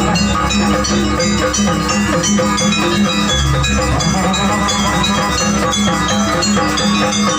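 Gamelan ensemble playing Janger accompaniment: a dense run of quick, bright metallophone notes over sustained low tones and drumming.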